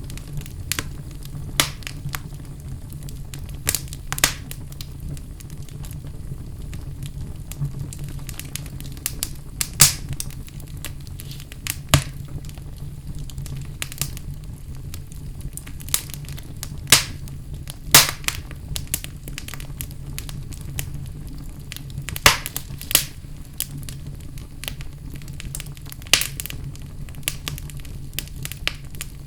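Wood fire crackling in a fireplace: irregular sharp pops and snaps, a few louder ones, over a steady low hum.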